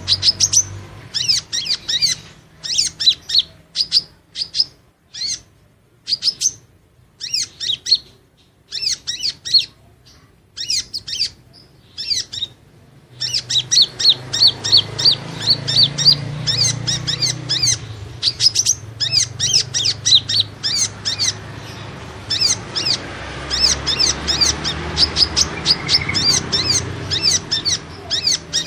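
Kolibri ninja, a small sunbird, calling with rapid, high, thin chirps: broken bursts with short pauses for the first half, then a dense, unbroken run of chirping. A faint low hum lies underneath.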